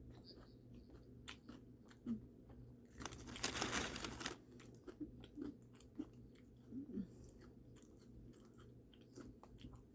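A person chewing fried fast food close to the microphone: soft scattered crunches and mouth clicks, with a louder crunching about three seconds in lasting about a second.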